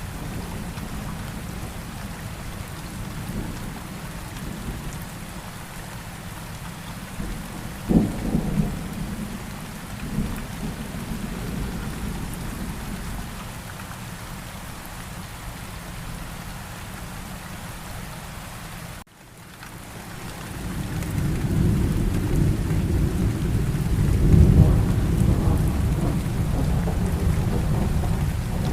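Steady rain with thunder: a sharp thunderclap about eight seconds in, then, after the sound cuts out for a moment, a long low rumble of thunder builds and is loudest near the end.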